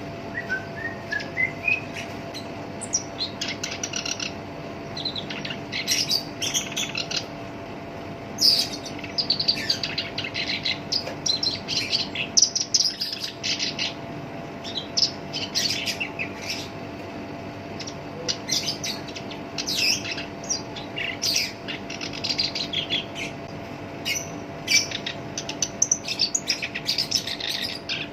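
Black-browed reed warbler (Acrocephalus bistrigiceps) singing its rough song: rapid scratchy chattering phrases, each a second or two long, broken by short pauses, over a faint steady hum.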